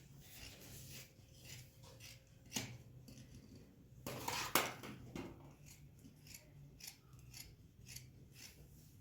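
Scissors cutting cloth in a run of short snips, with a louder burst of rustling noise about four to five seconds in.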